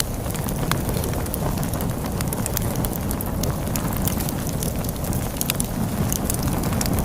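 Wood fire crackling with many sharp, irregular pops over a steady low rush of storm wind.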